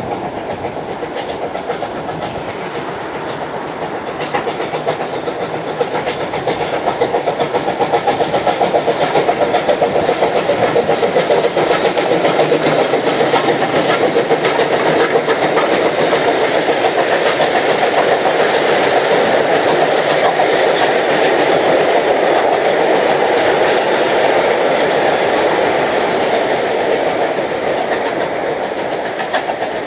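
The Cockle Train, a heritage steam train, passing close by, its carriages rolling along the rails. The sound builds a few seconds in, stays loud through the middle, and eases slightly near the end.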